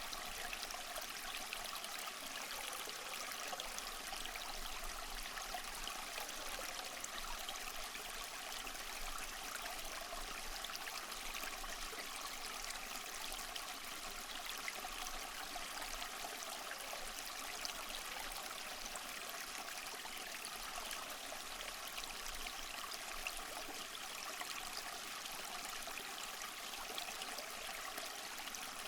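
Water running steadily, a continuous even splashing with no breaks.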